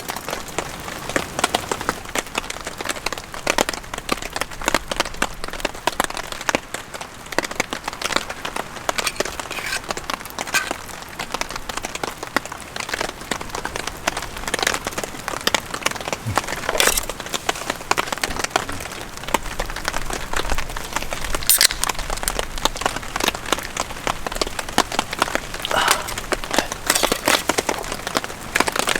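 Rain falling, with dense, irregular drops ticking on a surface and a few louder drops standing out.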